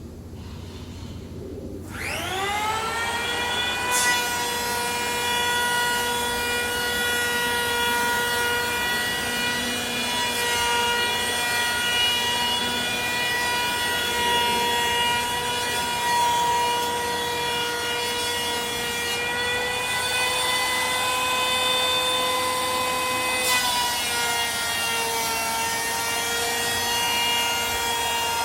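An electric woodworking power tool starts about two seconds in, its motor spinning up to a steady high whine, then dips slightly in pitch with added rasping noise near the end as it cuts into the timber.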